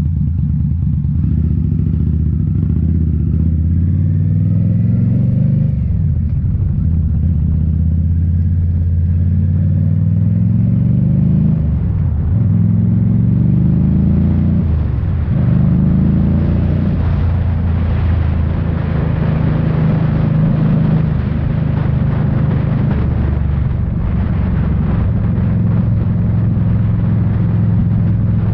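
Indian Scout Bobber's V-twin running through Rinehart slip-on mufflers while riding. The engine note climbs in pitch, drops back at upshifts about 6, 12 and 15 seconds in, then holds steady at cruising speed.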